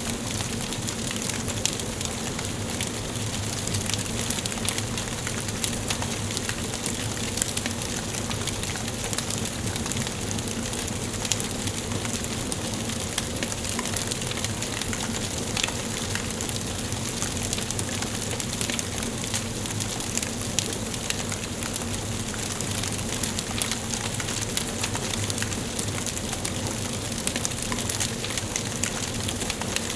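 Wood fire burning in a fireplace: a steady hiss with many small sharp crackles and pops scattered throughout.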